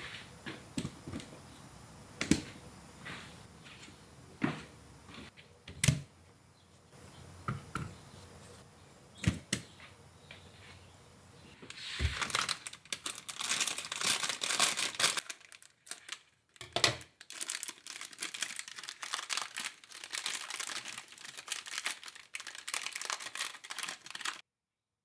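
Close handling sounds: scattered clicks and knocks, then from about twelve seconds in a dense run of crackling and crinkling that cuts off suddenly near the end.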